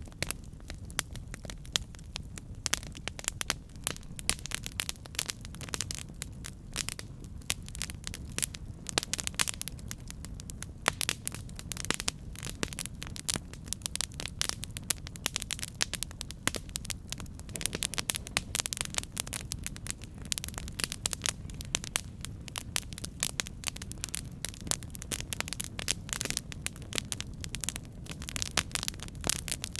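Campfire burning, with dense, irregular crackles and pops from the wood over a low steady rumble of flame.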